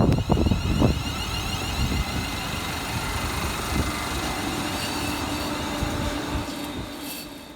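ScotRail Class 380 Desiro electric multiple unit running away from the platform and fading into the distance, its noise dying away near the end with a faint steady hum.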